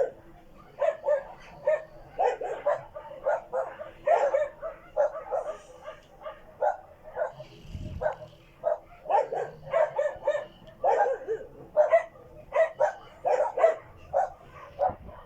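Dog barking over and over in short, sharp barks, about two a second.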